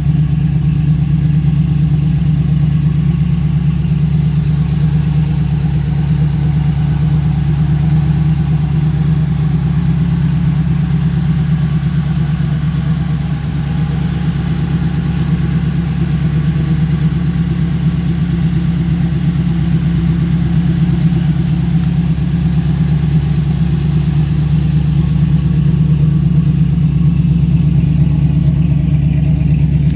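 Car engine idling steadily with a deep, even hum, apparently the restored 1968 Chevrolet Camaro's.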